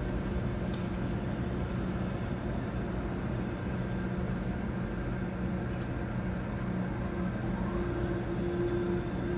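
DB ICE 4 electric high-speed train rolling slowly into the platform: a steady low hum from its running gear and drive, with a higher steady tone that grows stronger about eight seconds in and a faint rising whine with it.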